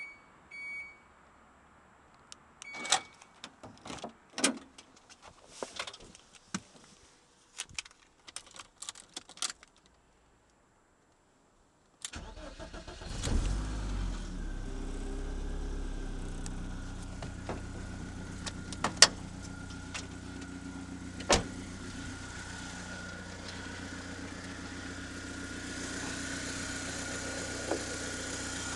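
BMW 318is four-cylinder engine starting with a brief surge and then settling into a steady idle, with two sharp clicks partway through. Before it starts there are a couple of short beeps and several seconds of scattered clicks and knocks.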